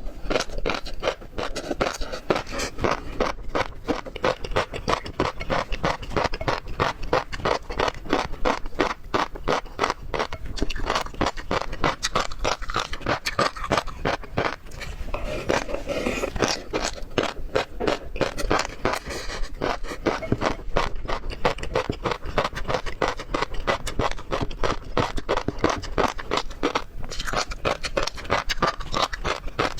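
A person chewing and crunching seafood in a continuous stream of rapid, irregular wet clicks and crackles.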